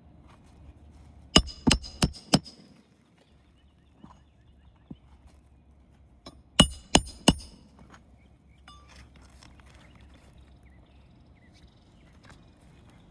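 Nails being driven into roof shingles: two quick runs of sharp, ringing metallic strikes, four about a second in, then three more a few seconds later.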